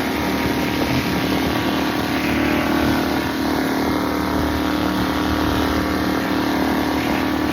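Motorboat engine running steadily while underway, a constant hum with rushing noise behind it.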